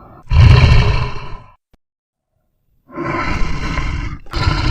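A big cat roaring: three rough roars, the first and loudest just after the start, then a pause of over a second before two more follow back to back.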